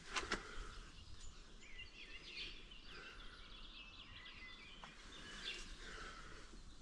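Small songbirds chirping and twittering, quiet, with many short calls overlapping. Two sharp taps come just after the start.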